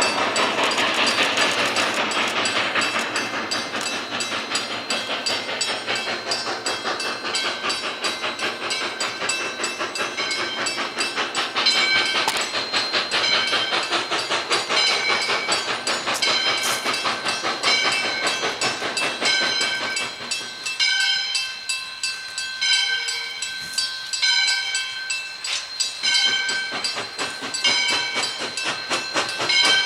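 A steam-hauled train running by, its wheels clicking quickly and evenly over the rail joints, with a hiss that is strongest in the first few seconds.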